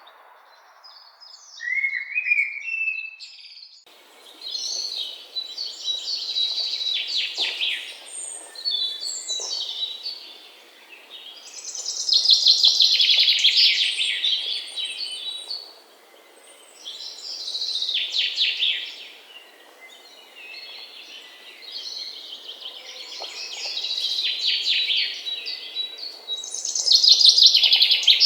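A songbird singing repeated phrases of fast trills, each a couple of seconds long with short pauses between them, over a faint steady background hiss.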